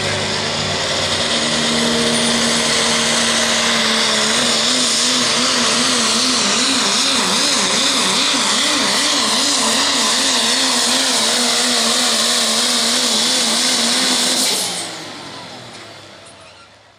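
Pro Stock diesel pulling truck's engine at full throttle under load during a pull, with a high turbo whine and an engine note that wavers up and down. The engine drops off suddenly near the end and the sound fades away.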